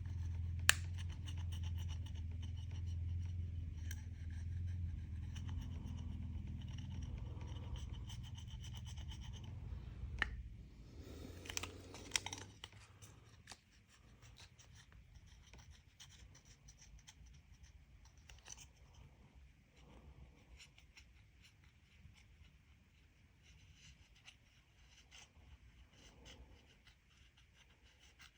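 Scratching and scraping of a tool working old polarizing film and residue off LCD glass, with a louder stretch of rubbing about ten to twelve seconds in and faint light scratches after. A steady low hum runs under the first ten seconds and then stops.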